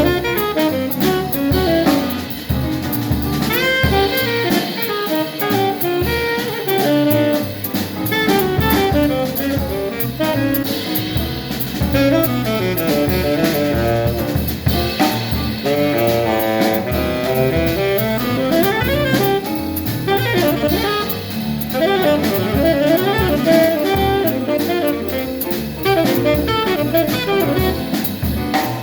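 A live jazz quartet playing, with a saxophone running fast melodic lines over drum kit and band.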